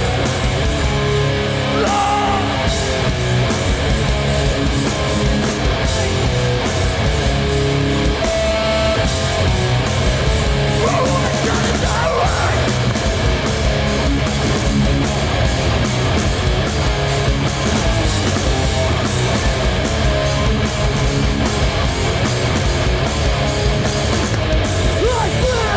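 A live hardcore band playing loudly, with distorted electric guitars, bass and drums.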